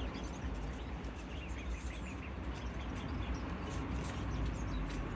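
Birds giving many short, high chirps over a steady low rumble, with a few sharp clicks in between.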